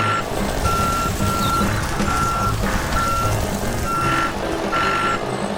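Vehicle reversing alarm beeping steadily at a single pitch, about seven evenly spaced beeps, over a continuous low motor hum.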